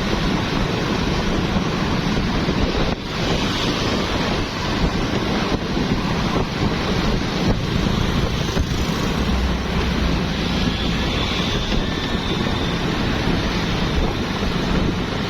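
Steady mixed noise of busy street traffic, motorbikes, cars and tuk-tuks, with wind rumbling on the microphone.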